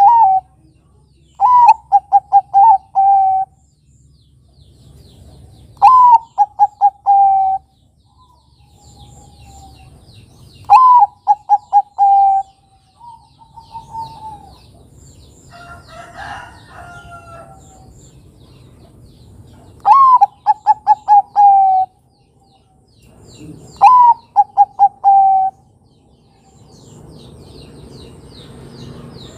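Zebra dove (perkutut, Bangkok type) cooing. Five phrases come a few seconds apart, with a longer pause midway, and each is a rising opening note followed by a quick run of short, even coos.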